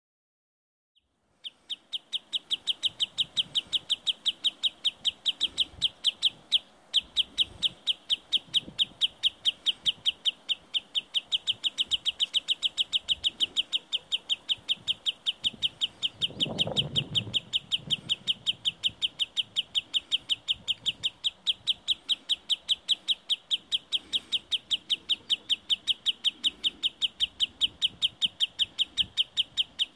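A sandpiper's sharp, high alarm call, repeated about four times a second without a break from about a second and a half in: the agitated calling of a wader trying to drive an intruder away from its nest.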